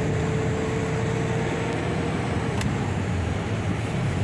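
Diesel engine and road noise heard inside the cab of a MAN truck driving along. A steady tone in the noise fades out about halfway through, followed by a single click.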